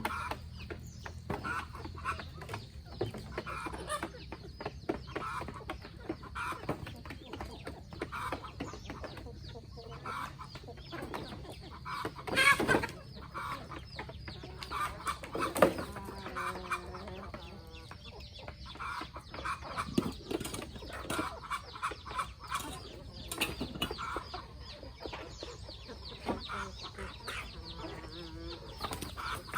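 Flock of free-range chickens clucking, with a louder call about twelve seconds in and another a few seconds later.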